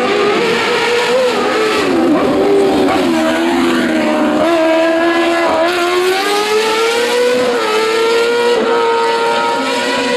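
Rally car engine running hard at high revs. The pitch climbs and drops back several times as the car accelerates, shifts gear and lifts off.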